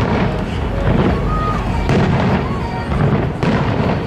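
Aerial fireworks bursting, with a sharp bang about two seconds in and another about three and a half seconds in, over a continuous rumble.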